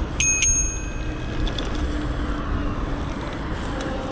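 Bicycle bell rung twice in quick succession near the start, each ring fading over about a second, over a steady low rumble from riding. The bell warns pedestrians to let the bike through.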